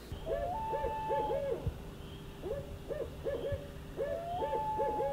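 Bird hooting calls: a note that slurs up into a held higher hoot, then three short arched hoots. The pattern recurs about three times with short pauses between.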